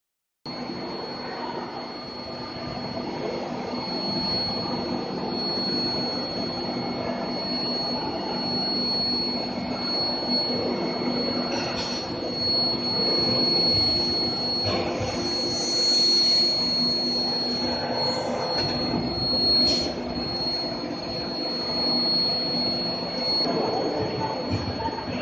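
Induction heating furnace running: a steady high-pitched whine over a low hum and machinery noise, starting suddenly about half a second in.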